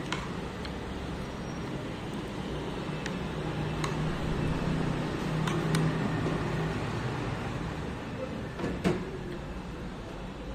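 Steady hum of street traffic, with a few sharp clicks scattered through it.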